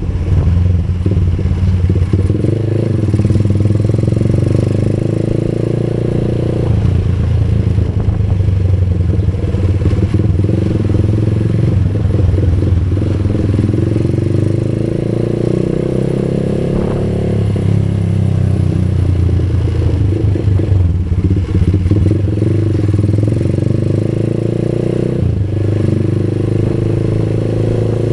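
Motor vehicle engine running on the move, its pitch rising and falling a few times with speed, over steady road and wind noise.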